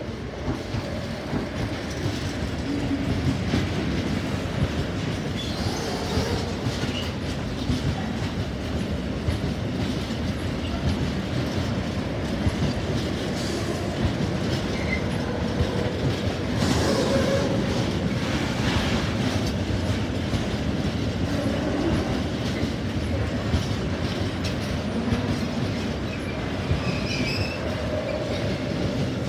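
Freight train's wagons rolling past at close range: a steady rumble of wheels on rail with clickety-clack over the rail joints and brief faint wheel squeals now and then.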